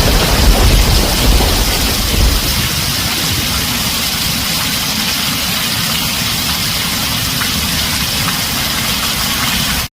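Heavy rain drumming steadily on a tin roof, with the low rumble of thunder dying away over the first two seconds or so.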